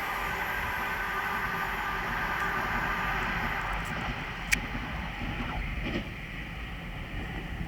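Class 387 electric multiple units running past and fading away: steady wheel-on-rail noise with a faint whine that dies out after about three and a half seconds, and one sharp click about four and a half seconds in.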